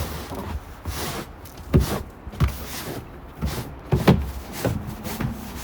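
Footsteps in snow at a steady walking pace, a dull step about every two-thirds of a second.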